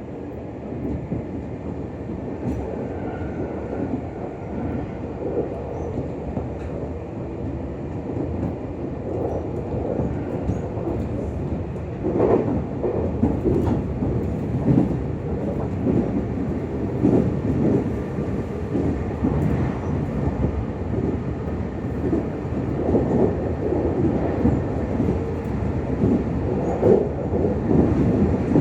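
Running noise inside a Meitetsu 6000-series electric commuter train: a steady rumble of wheels and running gear that grows louder over the stretch. From about halfway on, irregular knocks of the wheels passing over rail joints come through.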